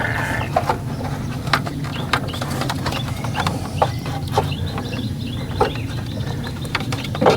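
Irregular light clicks and knocks of parts being handled as the generator's air mixer assembly is set in place and lined up, over a steady low hum.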